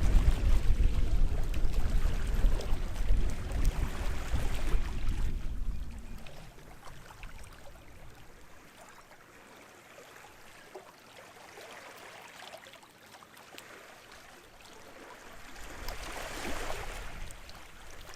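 Small waves washing onto the shore of a sheltered bay, with wind buffeting the microphone in a low rumble for the first few seconds. A quieter lull follows, then another wave hisses in near the end.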